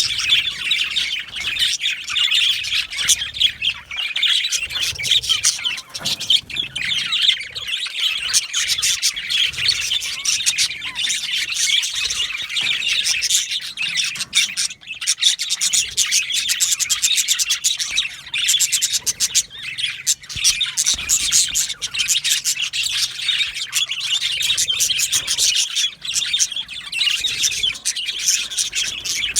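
A group of male budgerigars chirping and chattering without pause, many high calls overlapping.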